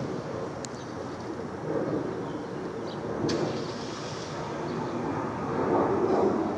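2011 Suzuki GSX-R 600 engine running steadily with the fuel tank raised, with a few sharp clicks near the start and about three seconds in.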